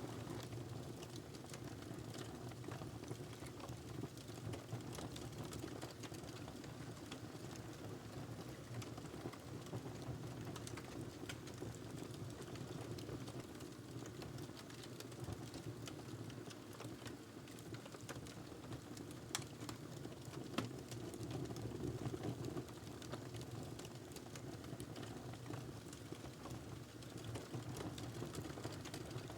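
Wood fire crackling in a fireplace: a steady low rush of burning under dense small crackles, with two sharper pops about two-thirds of the way through.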